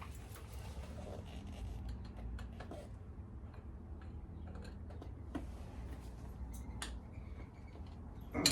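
Scattered light clicks and taps of hand work on motorcycle wiring, with one sharper click near the end, over a low steady hum.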